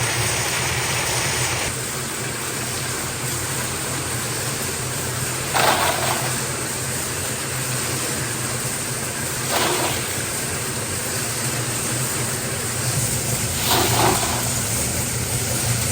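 Workshop machinery running steadily with a low hum, and three short, louder strokes about four seconds apart. A thin high tone stops near the start.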